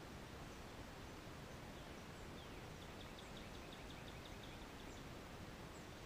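Faint steady outdoor background hiss, with a bird's faint rapid trill of short high notes, about six a second, from about two and a half to five seconds in, and a few thin high chirps.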